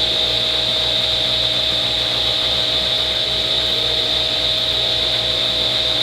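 Grizzly table saw running free at full speed with no cut: a steady high whine over a low, evenly pulsing hum.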